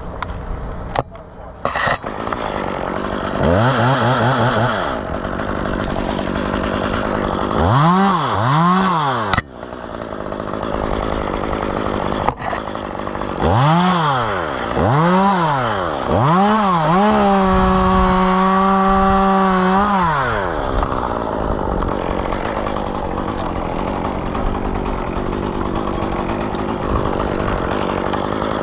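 Chainsaw engine revved in a series of short throttle blips, its pitch rising and falling each time, then held at high revs for about three seconds past the middle. Between the revs there is a steady lower, noisier running sound.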